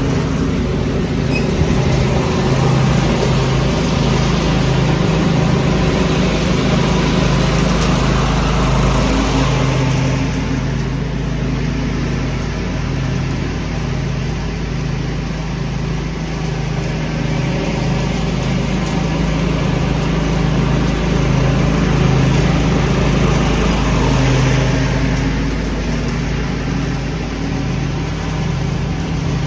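Lawn tractor engine running steadily while a leaf vacuum draws in air and leaves, a loud rushing noise over a pulsing engine hum. The rushing noise swells and eases twice.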